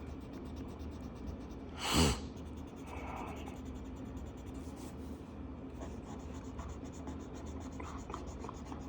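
Felt-tip marker scratching back and forth on paper while colouring in a page, the strokes coming quick and even in the second half. One brief louder rush about two seconds in.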